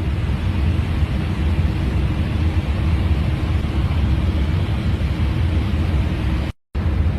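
Steady airflow and engine noise inside a jet airliner's cockpit at cruise, heaviest in the low end. It cuts out for a moment near the end.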